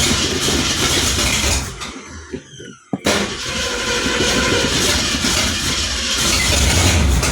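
1966 Ford Mustang engine being restarted. It runs, dies away with a falling pitch about two seconds in, then catches again a second later and keeps running loudly. The exhaust is broken off, so it runs straight off the header.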